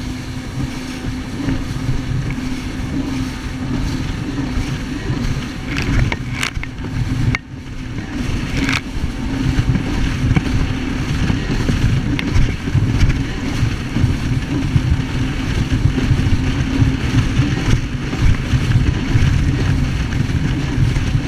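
Jet ski engine running under way with a steady low hum. The sound briefly drops about seven seconds in, with a few short knocks around it.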